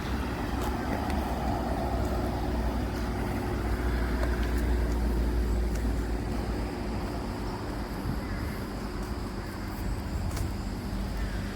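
Motor vehicle road noise: a steady low rumble with tyre and engine hum, a little louder in the first half.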